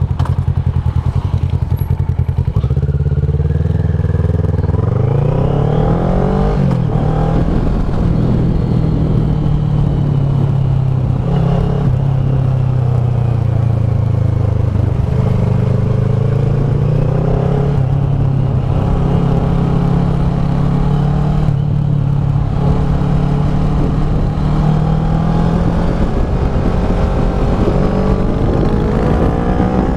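Kawasaki ER-6f's 649 cc parallel-twin engine running through a Leo Vince SBK slip-on exhaust. It holds a steady low note for the first few seconds, then rises and falls with the throttle over the rest.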